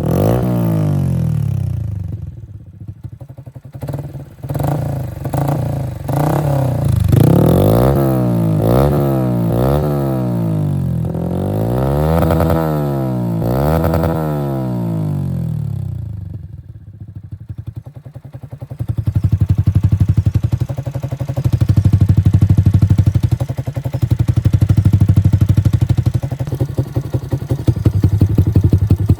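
Yamaha motorcycle's single-cylinder engine running through a Tridente Scorpion aftermarket muffler, revved up and down over and over. Over the last ten seconds it settles to a lower, pulsing note with slow swells every couple of seconds.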